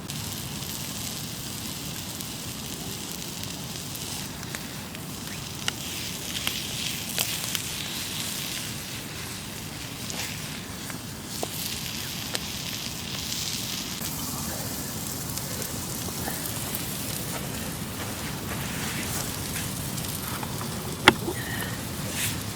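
Wood campfire crackling: a steady hiss with scattered sharp pops, one louder pop near the end.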